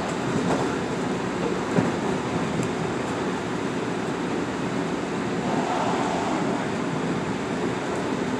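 Metro-North M8 electric multiple-unit train running at speed, a steady rumble and rush of wheels on rail heard inside the passenger car, with a single sharp knock about two seconds in.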